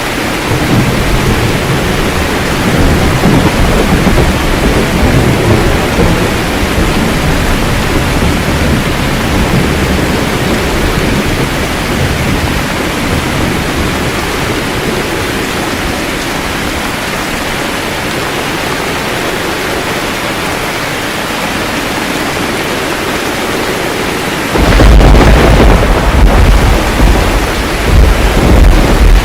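Steady rain in a thunderstorm. A low rumble of thunder in the first few seconds dies away, and a loud roll of thunder breaks in suddenly near the end, the loudest sound.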